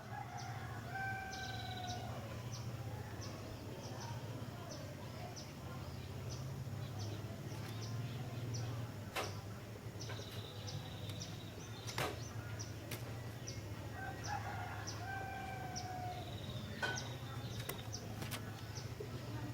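A distant rooster crows faintly twice, a short call about a second in and a longer one about fifteen seconds in, over a steady low hum. Thin high whistles, a regular run of faint high ticks about three a second, and a few sharp clicks sound through it.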